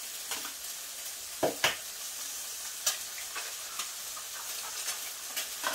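Eggs and sausage sizzling steadily on a griddle, with a few sharp taps and clicks as eggs are cracked and worked on it. The loudest taps come as a pair about a second and a half in.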